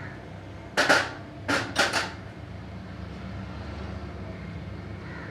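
Three sharp knocks in quick succession about a second in, over a steady low hum.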